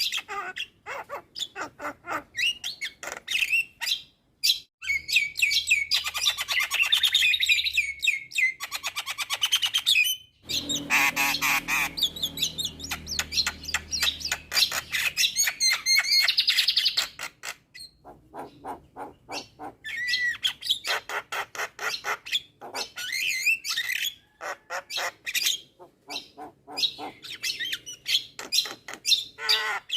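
Javan myna singing vigorously: a long, varied stream of harsh chattering, squawks and rapid clicking notes, with two especially dense, loud stretches in the middle and brief breaks between phrases.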